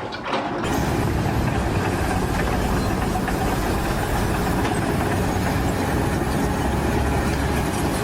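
A heavy engine running steadily, setting in abruptly under a second in.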